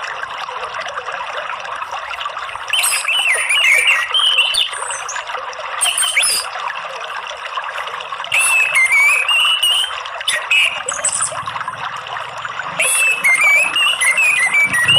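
Orange-headed thrush singing in short phrases of quick, wavering whistled notes, several phrases a second or two apart, over a steady sound of running water.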